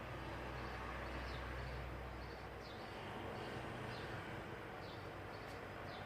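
Vintage KDK orbital ceiling fan with a metal body and aluminium blades running: a steady airy whoosh over a low hum, the hum easing off about two and a half seconds in. Faint short high chirps recur several times a second.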